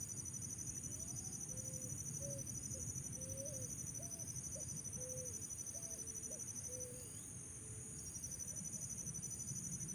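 Steady high, fast-pulsing trill of crickets or similar night insects over a low rushing noise, with a string of short, low whistled notes from about a second and a half in until about seven seconds in.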